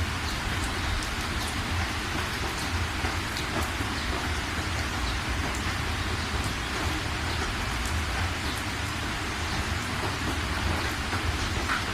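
Steady rain falling, with the patter of scattered individual drops on surfaces.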